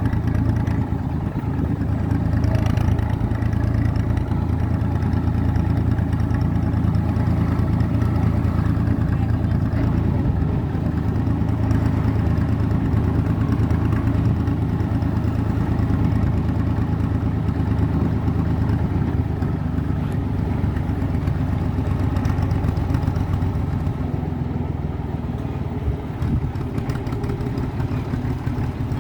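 IMT 549 tractor's diesel engine running steadily while under way, with a mechanical clatter over its low, even drone. The level dips slightly for a few seconds near the end.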